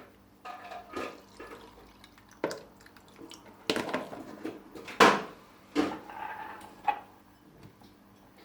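Homemade lemonade being strained: liquid splashing and dripping through a strainer in uneven spurts, with a few sharp knocks of the strainer and container, the loudest about five seconds in.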